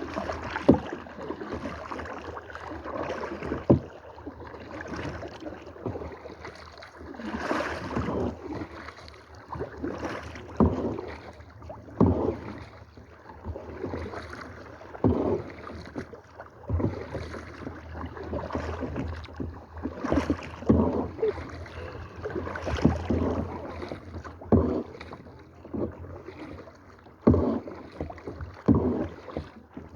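Kayak paddles dipping and splashing in the water in repeated strokes, coming irregularly every second or two.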